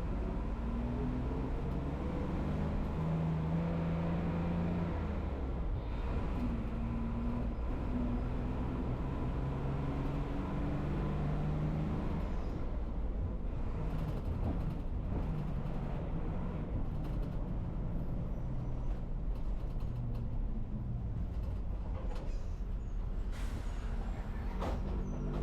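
Old city bus under way: its engine runs with a steady low rumble, and the pitch rises and falls as it works through the gears. From about halfway on, clicks and rattles come through.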